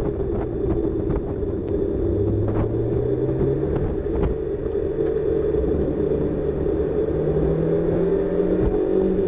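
1999 Mazda Miata's four-cylinder engine pulling under load on track, its note rising slowly in pitch as the car gains speed, heard from inside the open-top cockpit with wind and road noise.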